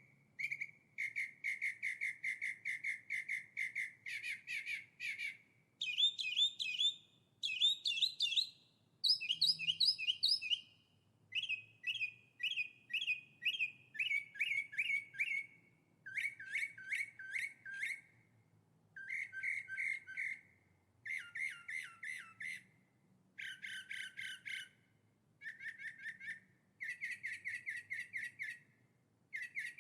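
A songbird singing a long series of phrases, each made of quickly repeated notes, about five or six a second. The pitch shifts from one phrase to the next, with short pauses between them.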